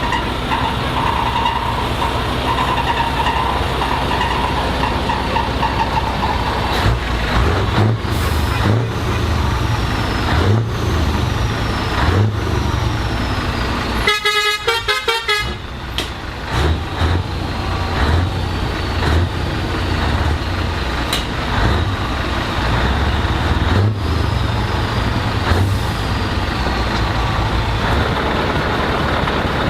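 Heavy truck engines rumbling as the lorries pull in, with a truck horn sounding a quick run of short blasts about halfway through.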